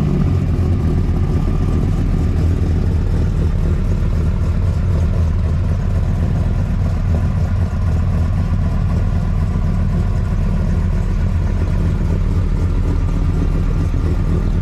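Dodge Ram SRT-10 (Viper truck) V10 engine idling steadily with a low, even rumble.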